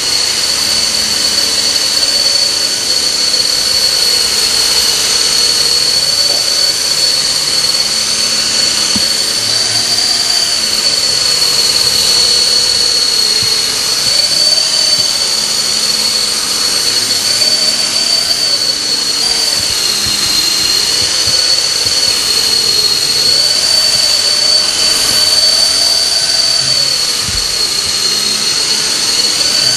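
Radio-controlled model helicopter in flight: a steady high-pitched whine with a lower tone that wavers up and down every few seconds as it flies.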